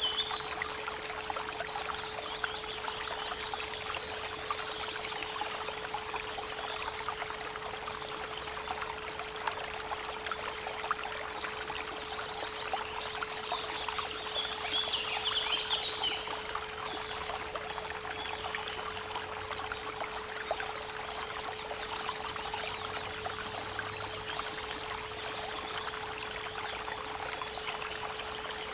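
Creek water running steadily, with birds singing over it every few seconds and a steady 432 Hz pure tone held underneath.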